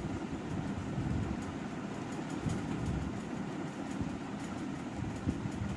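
Cotton towel (gamcha) rubbing and working wet hair, a dense low rustling rumble that keeps going without a break.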